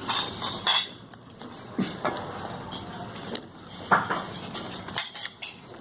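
Cutlery and dishes clinking and knocking at a dining table during a meal: scattered short clicks, the loudest a little under a second in and about four seconds in.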